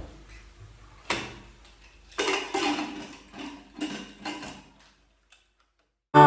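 Metal cookware clattering: a knock, then a run of clanks of a metal pot and lid with a short ring after each, which then cut off abruptly. Music starts right at the very end.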